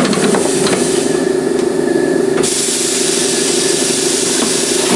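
Air compressor running steadily, with compressed air hissing as it feeds a pneumatic motorcycle tire changer; the hiss gets louder about two and a half seconds in. The compressor is slow to build pressure, reaching only about 80 PSI.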